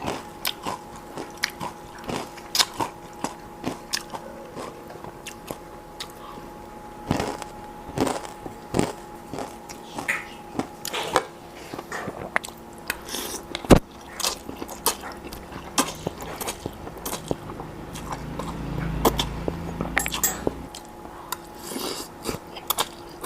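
Close-miked eating: chewing and biting into crunchy food, many short sharp crunches and mouth sounds at an uneven pace.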